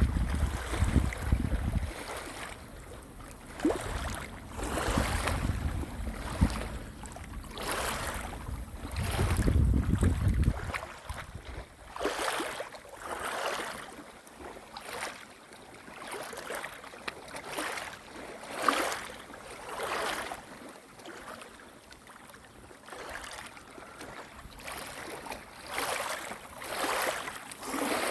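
Water washing in repeated swells, one every second or two, like small waves lapping. Wind rumbles on the microphone for about the first ten seconds, then drops away.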